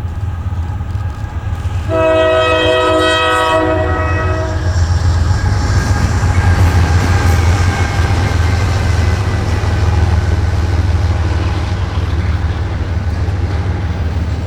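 Norfolk Southern freight train passing close, its diesel locomotives running loud and steady. The lead locomotive's air horn sounds one chord about two seconds in, lasting around two and a half seconds.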